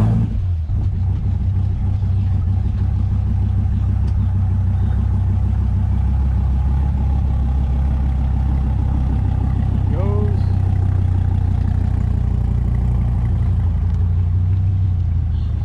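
Dodge Viper GTS's 8.4-litre V10 idling steadily with a low, even note.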